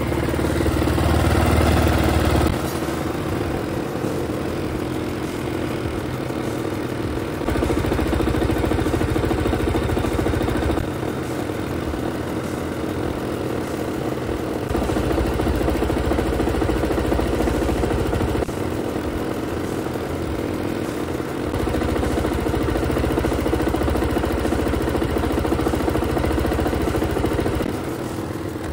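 Kymco Racing King 180 scooter engine running, held at raised revs for several seconds at a time, several times, and let back down to idle in between.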